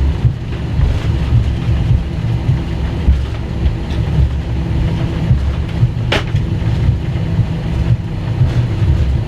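Airbus A321 cabin noise: a loud, steady low rumble of the running aircraft heard from inside the cabin, with one sharp click about six seconds in.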